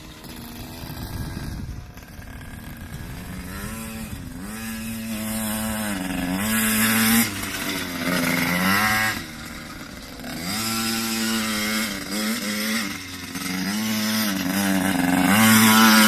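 Pit bike engine revving up and falling back again and again, with a high, buzzy note. It is loudest near the end.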